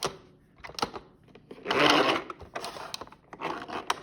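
Wooden toy trains pushed by hand along wooden track: scattered clicks, and a rustling rumble about halfway through.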